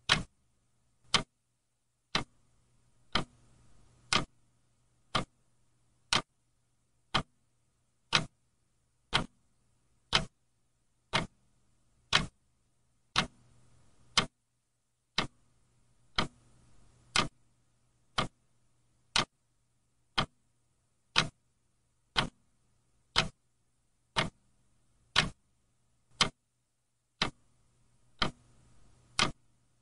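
A clock ticking steadily, one sharp tick about every second, over a faint low hum.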